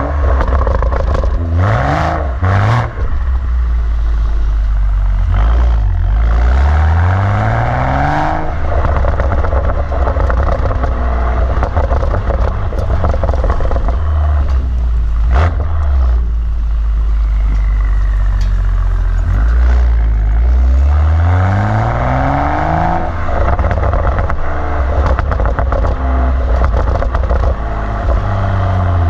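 BMW M135i's engine through an M Performance rear silencer with its exhaust valves open, running at a low drone and revved up several times, with a sharp crack about fifteen seconds in.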